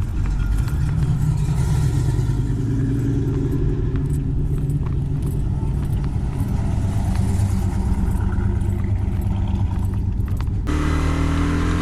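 Motorcycle engine running under way, with road and wind noise. About ten and a half seconds in, the sound changes abruptly and the engine note rises slightly as the bike picks up speed.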